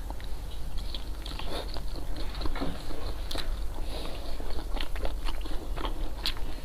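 Close-miked eating: a person chewing, with many short, wet mouth clicks.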